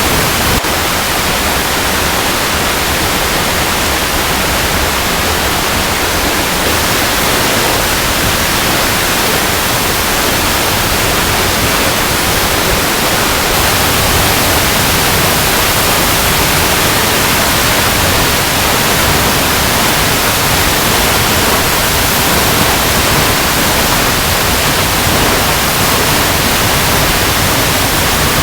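Waterfall cascading over rocks: a loud, steady rush of falling water with no change or break.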